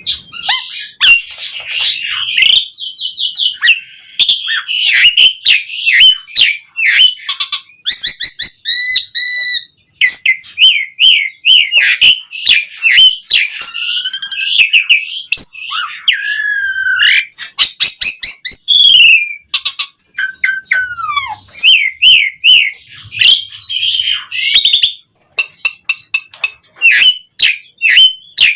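Asian pied starling (jalak suren) singing a long, varied song of rapid chattering notes, clicks and whistles, with a few drawn-out falling whistles past the middle.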